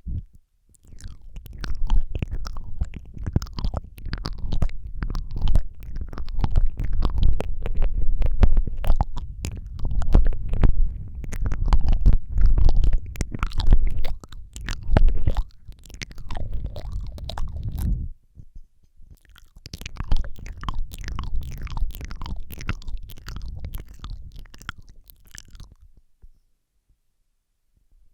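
Close-miked ASMR mouth sounds into a Rode microphone: wet lip smacks, tongue clicks and licking in a dense run of clicks over a deep rumble. They pause briefly about 18 seconds in and stop near the end.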